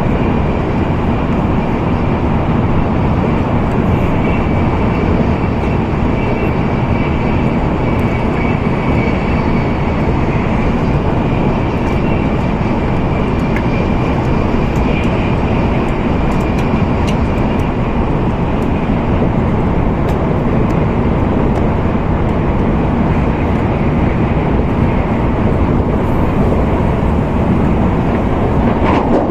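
Steady running noise of an N700A Shinkansen train at high speed, heard inside the passenger car: an even low rumble with a faint high whine that fades out about two-thirds of the way through.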